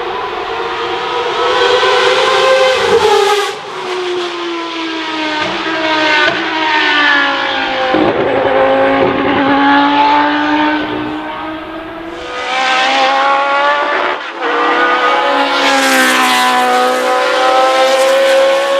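Racing cars passing one after another at speed, engines at high revs. The engine notes rise and fall as the cars go by and shift gear, with sharp breaks a few seconds in and again near the end.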